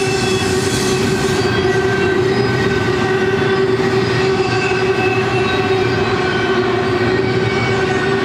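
Double-stack intermodal well cars rolling past: a steady, unbroken rumble of steel wheels on rail, with a steady tone running through it.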